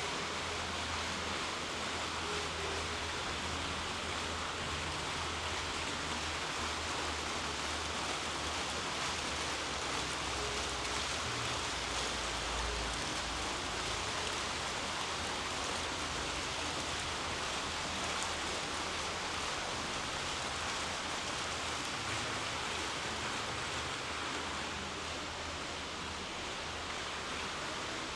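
Steady, even rushing noise with no distinct events, dropping slightly near the end.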